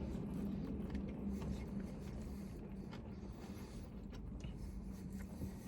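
Quiet background: a low steady hum that fades a little over the first seconds, with faint scattered rustles and small clicks.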